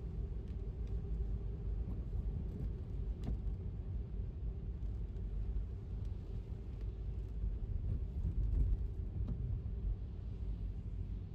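Steady low rumble of an electric car's tyres on wet road while driving, with a few faint taps of rain.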